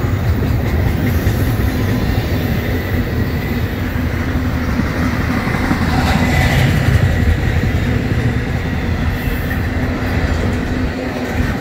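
Double-stack intermodal freight cars rolling past close by on steel rails: a loud, steady low rumble of wheels on track.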